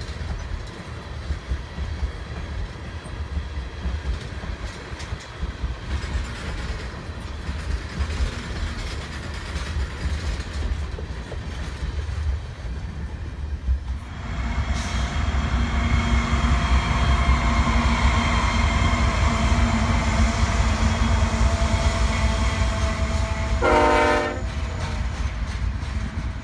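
Freight train of tank cars rolling past with a steady low rumble. After a cut, a louder stretch where a train horn holds steady tones for several seconds, then gives a short loud blast near the end, as a train of coal hopper cars rolls by.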